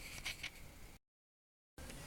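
Faint room noise with a few light taps, broken about a second in by a moment of dead silence where the recording is cut.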